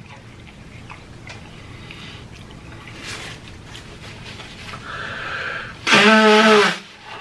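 Faint eating noises with small clicks, then about six seconds in a loud, wordless vocal sound from the eater: one held tone, under a second long, sinking slightly in pitch.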